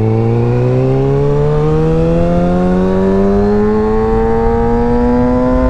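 Sport motorcycle engine accelerating hard in one gear, its pitch climbing steadily, heard through a helmet-mounted mic with wind rumble underneath.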